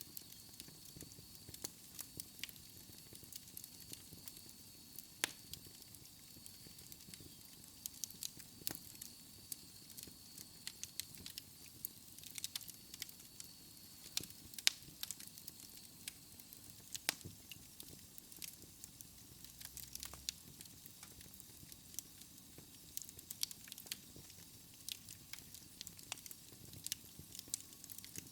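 Wood fire in a fireplace crackling, with irregular sharp pops and snaps over a faint hiss. A faint high whistle sounds through roughly the first dozen seconds.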